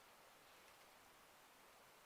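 Near silence: faint steady hiss of the quiet outdoor background.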